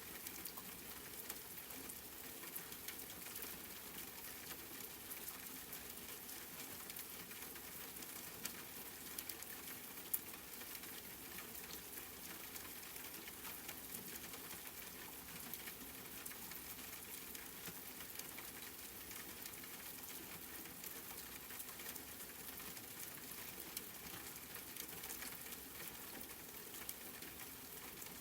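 Steady rain pattering on a surface, a dense hiss of fine drop ticks with one sharper drip about ten seconds in.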